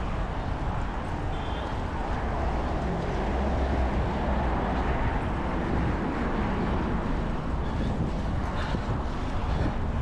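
Steady road noise of passing traffic mixed with wind rushing on the microphone, a little fuller around three to four seconds in.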